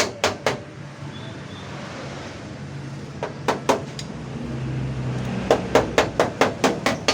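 Hammer tapping out a small dent in a Daihatsu van's rear door panel in ketok magic body repair: three quick taps at the start, a few more near the middle, then a fast run of taps, about four a second, near the end. A low steady hum swells under the taps in the middle.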